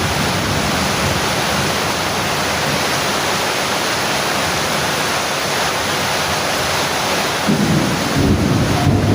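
Heavy rain falling steadily in a dense hiss. A low rumble swells in underneath near the end.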